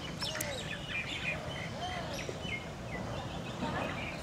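Small birds chirping, many short high calls in quick succession, with a few sharp clicks just after the start.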